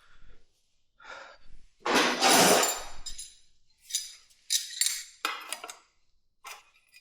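Metal hand tools clinking and knocking against metal motorcycle parts, several sharp ringing clinks in the second half, after a louder rushing noise about two seconds in.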